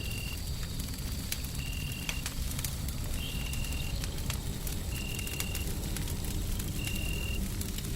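Wood fire crackling in sharp scattered pops over a steady low rumble of white noise. A faint high tone repeats about every second and a half.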